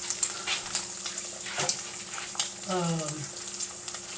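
Food frying in a pan on the stove: a steady sizzle with scattered crackles and pops. A short murmur from the cook comes about three seconds in.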